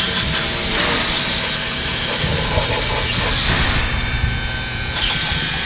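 Aerosol cleaner spray can hissing in a long spray of about four seconds, then a second spray starting near the end.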